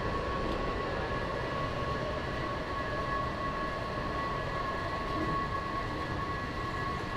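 A steady rumble with sustained high, ringing tones held over it.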